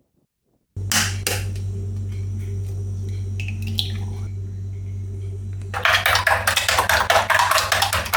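A metal utensil clattering in a bowl: a sharp clack, then near the end a few seconds of rapid, even strokes like whisking, over a steady low hum.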